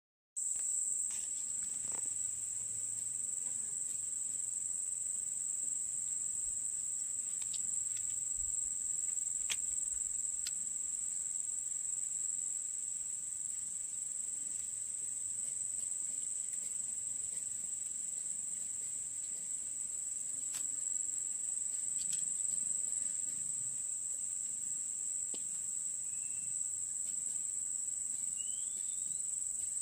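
Insects trilling in one steady, unbroken high-pitched tone, with a few faint clicks.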